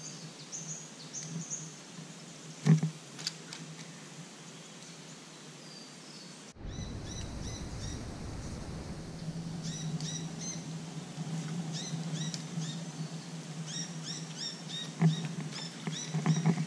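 Small birds chirping: short high calls repeated in quick runs, sparse at first and dense in the second half. There is one sharp knock about three seconds in.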